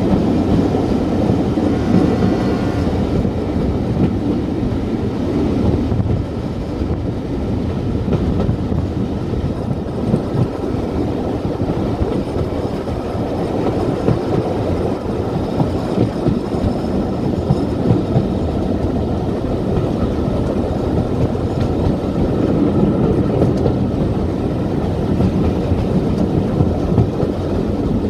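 Train running along the track: a steady rumble of wheels on rails with many small irregular knocks.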